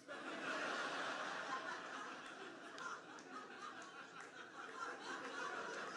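A theatre audience laughing after a punchline: a dense wash of many people laughing, strongest at the start and slowly dying down.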